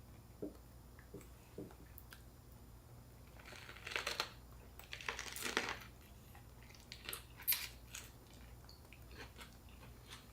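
Mouth-close eating sounds from a fresh spring roll: two crunching stretches about four and five seconds in, with small clicks and taps before and after.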